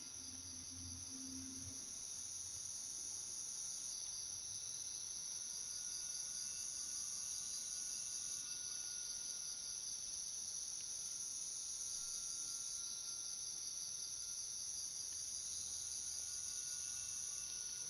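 Night insect chorus: steady, high-pitched trilling with a fine, even pulse, continuing without a break.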